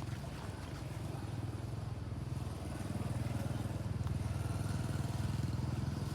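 A small engine running steadily with a low, rapid pulsing, growing a little louder about halfway through.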